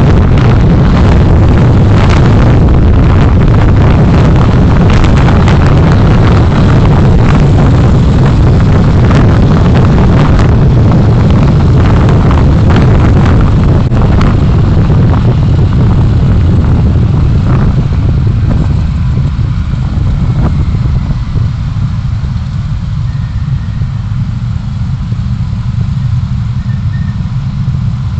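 Road vehicle in motion heard through a dashcam microphone: a loud, steady low rumble of engine, tyres and wind with frequent knocks and rattles, becoming quieter and smoother about two-thirds of the way through.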